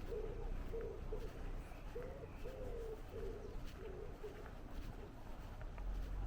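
A wood pigeon cooing: a phrase of low coos ends about a second in, and a second phrase of about five coos runs from about two seconds to about four seconds in.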